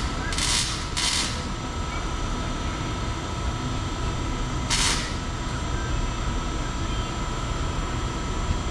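Two strokes of a ratchet wrench about a second in and one more near the middle, over a steady low rumble.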